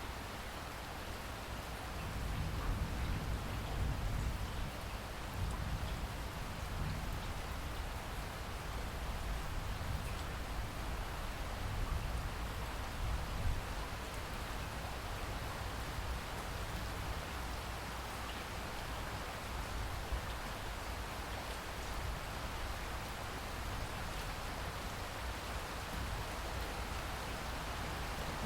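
Rainstorm: rain falling steadily, an even hiss. A low rumble swells about two seconds in and eases off about halfway through.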